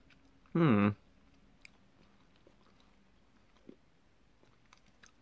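A person chewing a soft gummy sweet, with faint scattered mouth clicks. A short hummed "mm" comes about half a second in.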